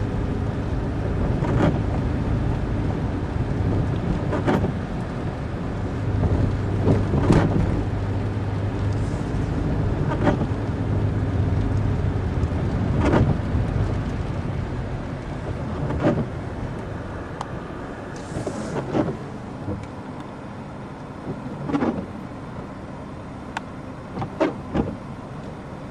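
Car driving, heard from inside: steady engine and road rumble with a sharp knock about every three seconds. The rumble eases off in the second half, as if the car slows.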